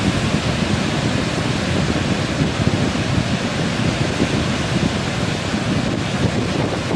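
Heavy ocean surf, with strong wind buffeting the microphone.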